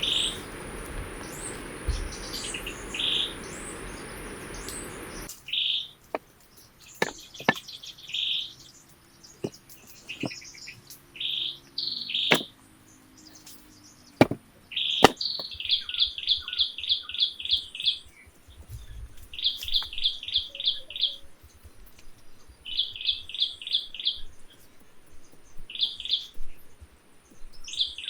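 Forest birds singing, with repeated runs of rapid chirps, about five a second, in the second half. For the first few seconds a steady rushing noise lies under the birds and stops abruptly, and a few sharp knocks or clicks come in the middle.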